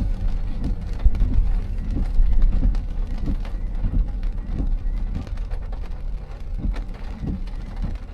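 Car driving in rain: a steady low road rumble with tyre noise, and scattered taps of rain hitting the car, easing off a little near the end.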